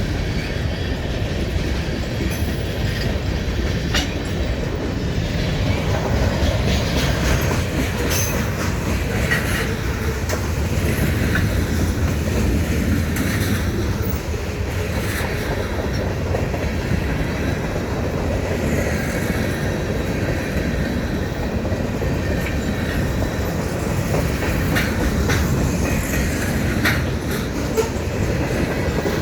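Mixed freight train rolling past: a steady low rumble of wheels on rail, with clicking over rail joints and occasional brief, faint wheel squeals.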